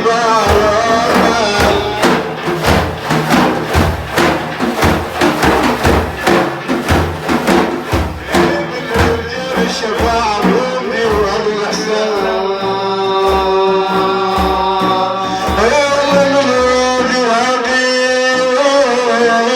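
Sufi devotional praise song. In the first half it has a steady beat of drum strokes. From about halfway on it changes to long, drawn-out held notes, with a rise in pitch near the end.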